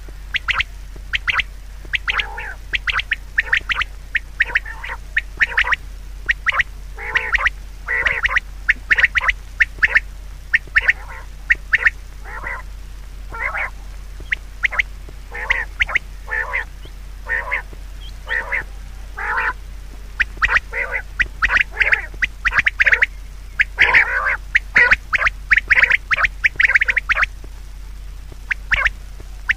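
Many short, harsh bird calls in quick irregular succession, several a second, over a steady low hum.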